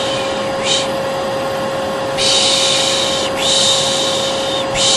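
Hair dryer running with a steady hum, overlaid by a person shushing 'pşşş' over and over, some shushes short and some over a second long. Continuous white noise and shushing are used to soothe a colicky baby.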